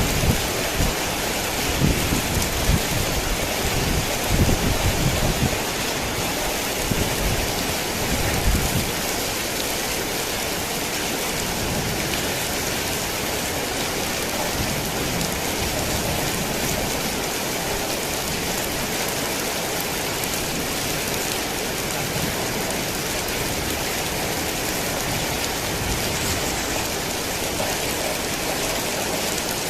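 Heavy rain falling steadily, with low thunder rumbling through the first several seconds and dying away about nine seconds in, after which only the steady rain continues.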